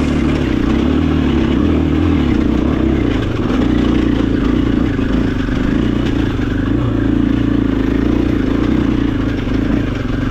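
KTM 500 EXC-F single-cylinder four-stroke dirt bike engine running loud under throttle, its revs wavering as the rear tyre struggles for traction on a slippery climb.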